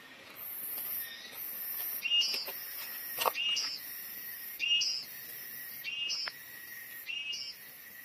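A bird calling over and over, five short calls about a second and a half apart. Behind it, insects buzz in a high drone that switches on and off in spells.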